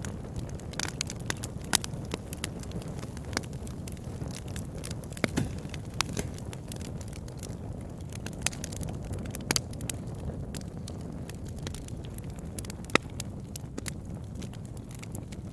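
Campfire crackling: irregular sharp pops and snaps from burning wood over a steady low rumble, with a few louder pops, the loudest near the end.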